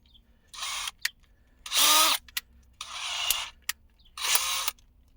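A cordless drill driving a screw in four short bursts of about half a second each, with clicks between them, as the third brake light's fastener is run in.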